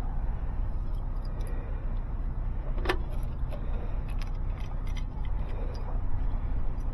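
A few light clicks and jingles, with one sharper click about three seconds in, over a steady low rumble.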